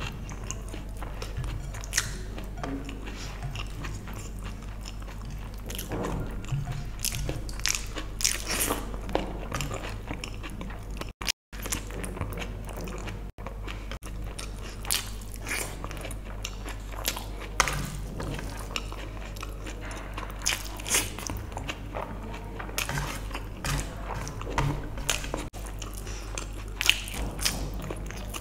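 Close-miked chewing and mouth sounds of someone eating vegetable biryani by hand: irregular wet clicks and smacks, over a steady low hum. The sound cuts out briefly twice near the middle.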